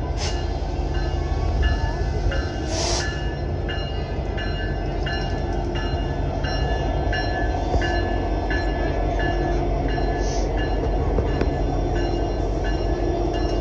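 Canadian Pacific Holiday Train's diesel locomotive and boxcars rolling past with a steady low rumble. A bell-like ding repeats about twice a second, typical of a railroad crossing bell, and two short hisses come in the first three seconds.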